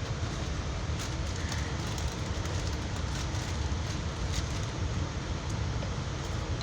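Steady low rumble of a Metrolink commuter train coach in motion, heard from inside the passenger car, with a few faint clicks and rattles in the middle.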